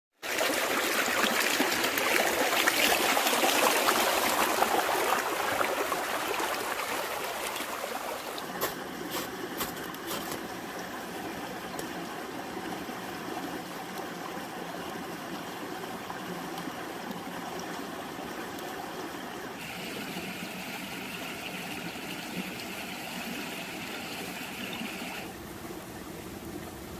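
Running water, loudest in the first few seconds and then settling into a steadier, quieter flow, with a few sharp clicks about nine to ten seconds in.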